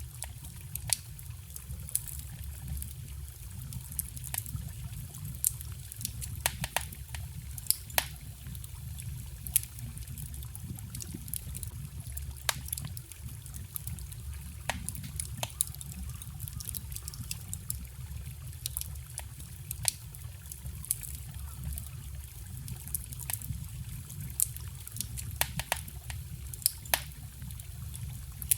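Wood fire crackling with sharp, irregular pops, some in quick clusters, over the steady low rush of a forest stream.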